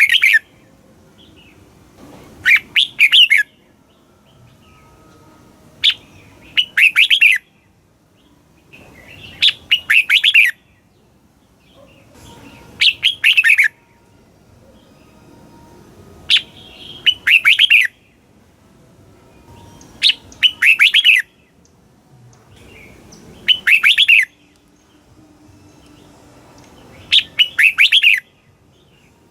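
Red-whiskered bulbul singing short, quick phrases of several rapid notes, one phrase about every three to four seconds.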